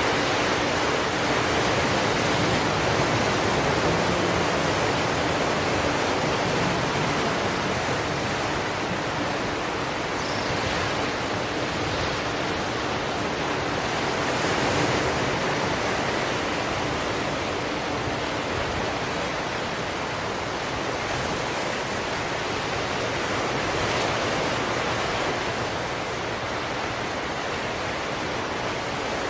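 Ocean waves breaking and washing ashore in a steady hiss, swelling a little about every ten seconds.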